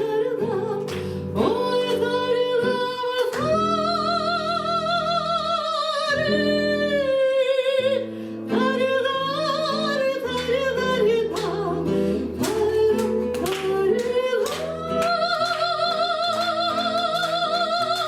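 A singer performing a bard song to acoustic guitar accompaniment, holding long notes with vibrato.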